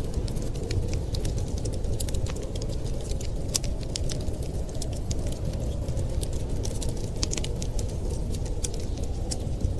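Wood fire crackling, with many small irregular sharp pops and snaps, over a steady low rumble of wind.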